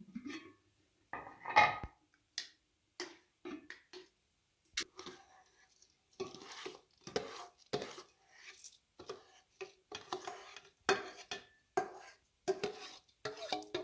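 Metal utensils and cookware clinking and scraping: a run of short clattering strokes with some ringing, sparse at first and then coming about once or twice a second.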